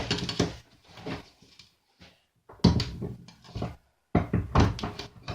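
Irregular clattering and knocking of tools and metal parts being handled on a workbench, including a metal electrical conduit box cover, in several short clusters with no motor running.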